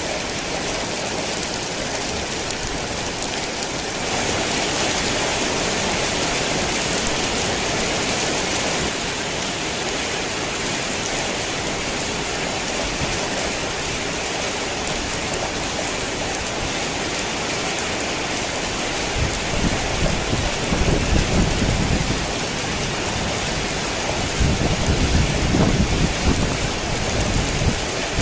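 Heavy rain falling steadily, growing a little louder about four seconds in. Low thunder rumbles roll twice in the second half.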